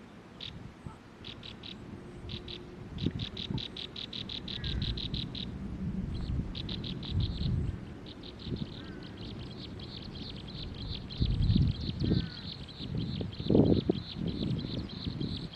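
A small bird calling in a rapid, evenly spaced series of high notes, about six a second, at first in short runs and then in one unbroken run from about halfway through. Several low thumps or rumbles come near the end.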